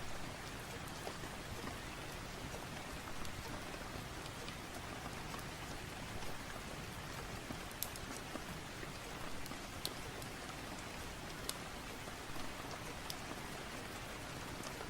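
Steady rain: a dense, even hiss of falling drops, with a few sharp ticks now and then.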